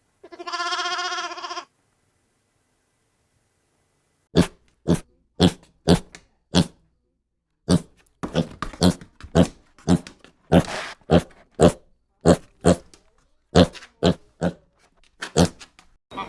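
A lamb bleats once near the start. Then, after a pause, a pig grunts over and over, in short grunts about two a second.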